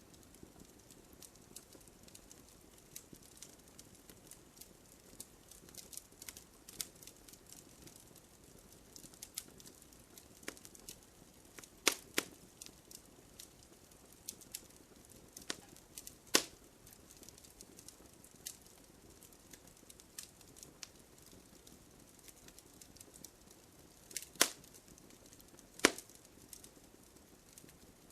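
Wood bonfire crackling: a steady scatter of small clicks and snaps over a low hiss, with a few sharp, louder pops spread through it, two of them close together near the end.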